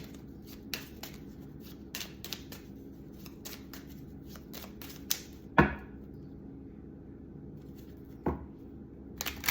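Oracle card deck being shuffled by hand: a run of light card clicks and taps for about five seconds, then a couple of sharper knocks, over a steady low hum.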